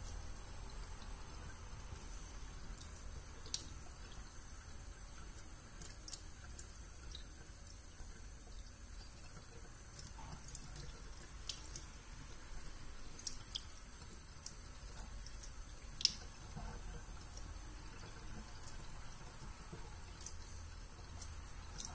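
Faint water from a tap into a sink: irregular drips and small splashes over a steady low hum, with one louder drip about two-thirds of the way through.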